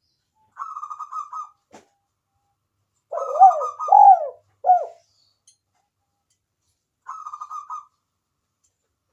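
Spotted dove cooing: a short rolled trill about half a second in, then a louder full call about three seconds in, a rolled opening followed by three swelling, arching coos, and another short rolled trill near the end.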